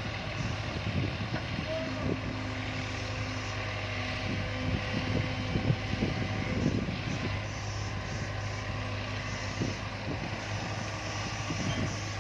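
Heavy diesel machinery engine running steadily with a low drone, with scattered short knocks over it.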